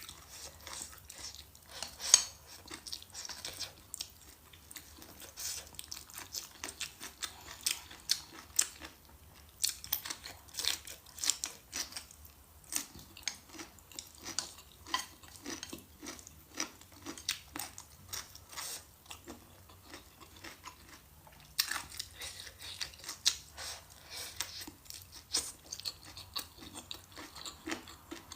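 A person chewing and biting crunchy food close to the microphone, with many crisp, irregular crunches and brief pauses between mouthfuls.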